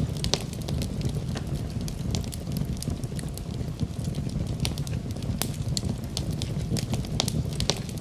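Wood fire in a fireplace crackling: irregular sharp pops and snaps of burning wood, several a second, over a steady low rumble of the flames.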